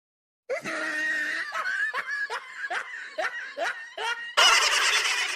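Laughter sound effect. After a moment of dead silence, a person snickers in a run of short laughs that rise in pitch, two or three a second, then a louder, noisier burst of laughter comes near the end.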